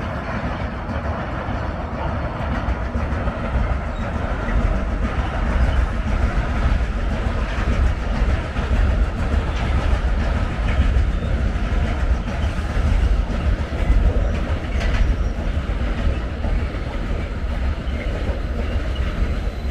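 Train running on the tracks: a loud, steady rumble of wheels on rail, with some faint wheel clicks in the middle stretch.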